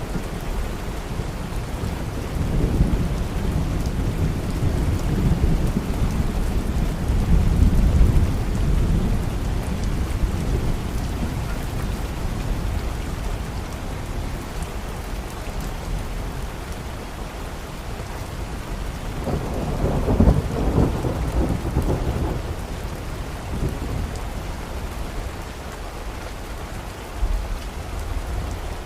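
Steady rain with rolling thunder: a long low rumble through the first ten seconds or so, fading, then a second swell of thunder about twenty seconds in and a brief low rumble near the end.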